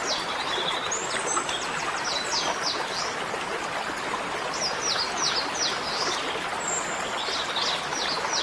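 Small birds chirping in short runs of quick high notes, several times, over a steady rushing background noise.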